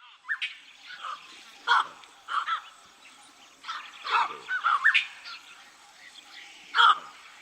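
Birds calling: scattered short chirps and rising-and-falling whistled notes, the loudest about two seconds in and again near the end.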